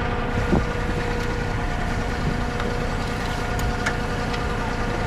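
Diesel engine running steadily, with a steady whine over its low rumble.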